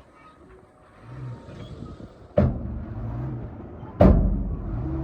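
Excavator diesel engine running under load, with two heavy knocks about a second and a half apart in the second half, the second the louder.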